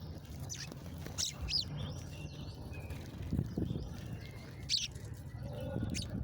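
Small birds giving a few short, high chirps, two close together about a second in and more a few seconds later, over a low steady rumble.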